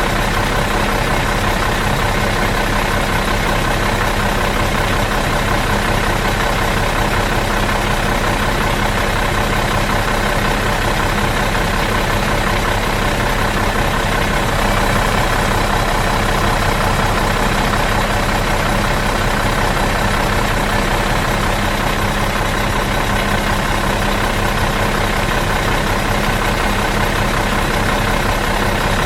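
Bus engine idling in neutral, a steady, even hum that does not change.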